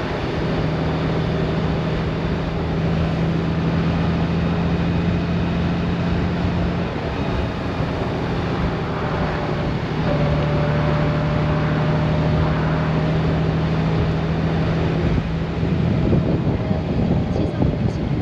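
Honda Gold Wing motorcycle riding along with a steady engine hum under wind and road rush. The engine note eases off about seven seconds in and comes back a little lower about three seconds later, with gustier wind near the end.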